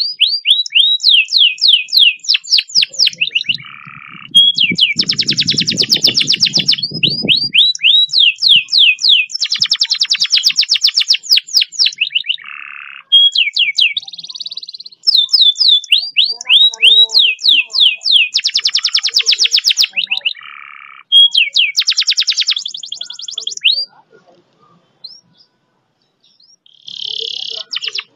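Domestic canary singing long, fast rolling trills and runs of rapid sweeping whistled notes, phrase after phrase with short breaks, falling quiet for a couple of seconds near the end. A low rumble sits under the song about four to seven seconds in.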